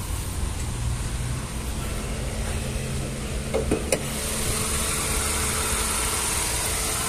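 Hyundai HB20 1.0's engine idling steadily. A few clicks and a knock about three and a half seconds in as the hood is released and lifted. After that the idle comes through louder, with more hiss.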